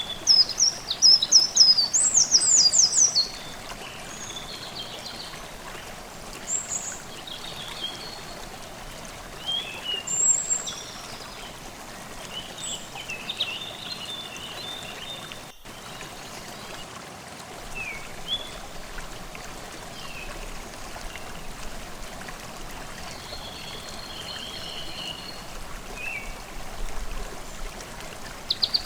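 Forest stream babbling steadily with songbirds calling over it. A loud run of quick high notes fills the first three seconds, then scattered chirps and short phrases follow, with a split-second dropout about halfway.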